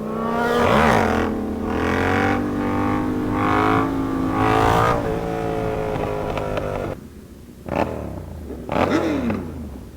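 Sportbike engines under acceleration, the pitch climbing and dropping several times as the gears change. About seven seconds in the engine note drops away as the throttle closes, and two short loud engine bursts with falling pitch follow near the end.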